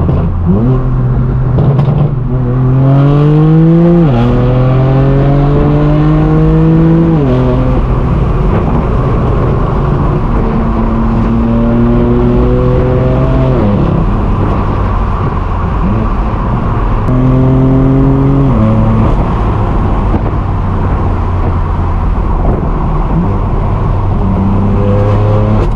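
Straight-piped BMW M4 F82's twin-turbo inline-six running loud under acceleration. The engine note climbs in pitch and drops sharply with each upshift, about four times, then holds steadier near the end.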